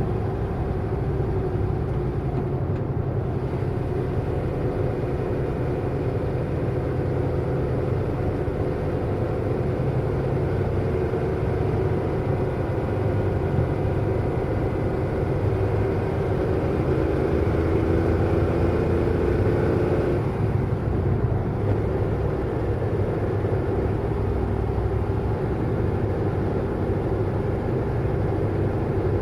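Car driving fast: steady engine and road noise. The engine's pitch climbs slowly from about twelve seconds in, then drops suddenly about twenty seconds in.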